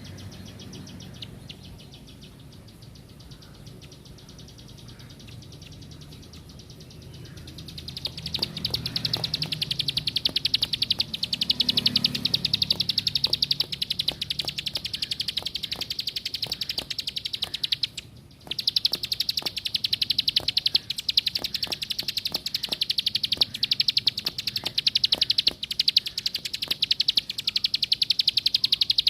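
Ciblek sawah (plain prinia) singing a long, fast run of high, clicking, rattling notes. The song picks up about eight seconds in, stops for a moment near the middle and starts again.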